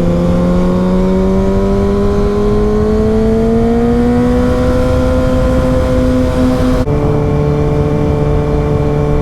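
Sport motorcycle engine under way, its note climbing slowly and evenly as the bike gains speed. About seven seconds in the sound changes abruptly to a lower, steady engine note.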